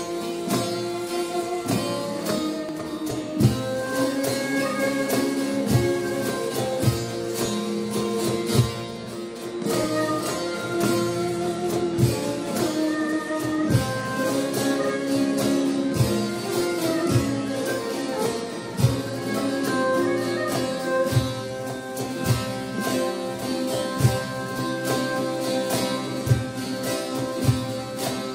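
Turkish folk music ensemble playing an instrumental passage: plucked string instruments carry a melody over regular drum strokes.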